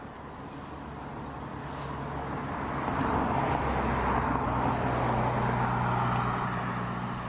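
A motor vehicle passing on the road, with engine hum and tyre noise growing louder over about three seconds, holding, then easing off near the end.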